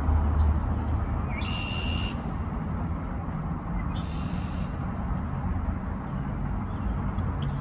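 Red-winged blackbird singing twice, two short songs about two and a half seconds apart, over a steady low background rumble.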